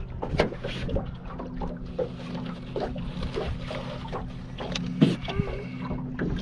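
Small boat motor running at a steady speed with a low hum, under wind and water noise on the microphone, with one sharp knock about five seconds in.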